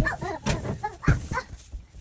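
A dog making short, pitched whining and yipping sounds, with a knock about a second in.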